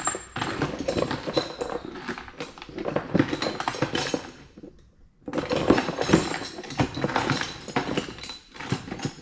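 Loose metal bolts and small hardware clattering as they are rummaged through by hand, in two long spells of dense rattling with a short pause about halfway.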